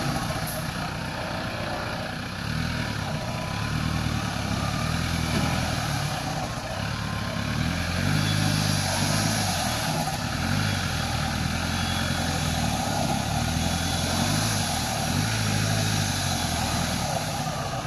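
Off-road 4x4's engine revving up and down in repeated surges every two to three seconds, straining under load while the vehicle is stuck nose-down in a muddy ditch.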